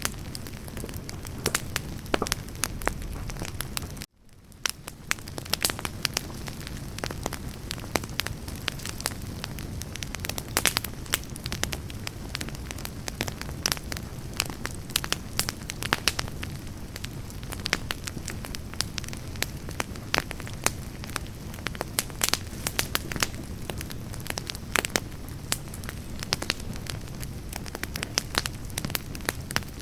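Wood campfire burning, the logs crackling and popping with many sharp snaps over a low rumble of flame. About four seconds in the sound cuts out for a moment, then fades back in.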